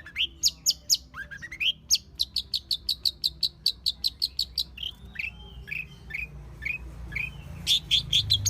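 Long-tailed shrike singing a varied song: rising sweeping notes, then a fast run of high chips at about eight a second, then short falling notes, with a rapid burst of notes again near the end.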